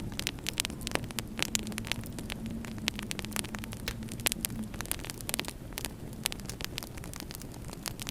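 Wood fire crackling in a fireplace: a dense, irregular run of sharp pops and snaps over a low steady rumble and faint hum.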